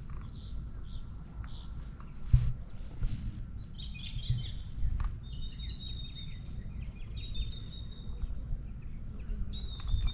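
Birds chirping and singing, with runs of quick high notes from about four seconds in, over a steady low outdoor rumble. A sharp thump a couple of seconds in.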